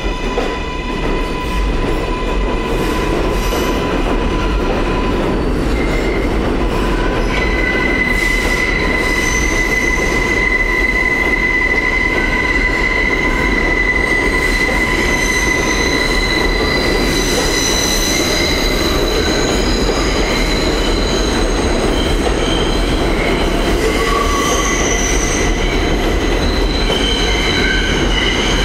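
R142A subway train running, with a steady rumble and the wheels squealing in sustained high tones that come and go.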